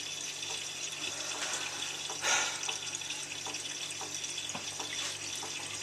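Miele W3744 washing machine mid-wash: a steady hiss of water in the drum with small ticks and a louder splash about two seconds in.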